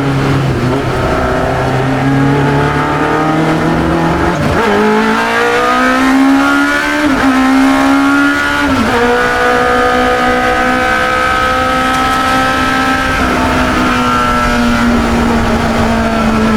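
Engine of a 1972 Chevron B21 two-litre sports racer heard onboard, running steadily at lower revs, then accelerating from about four and a half seconds in. Its pitch climbs and dips briefly at two upshifts, around seven and nine seconds, then holds steady at high revs.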